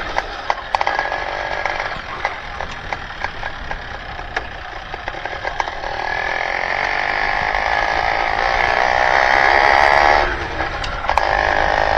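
Yamaha RX135 two-stroke single-cylinder engine with an aftermarket muffler, heard from the moving bike. The exhaust note builds and grows louder over the second half as the bike pulls, dips briefly near the end, then picks up again.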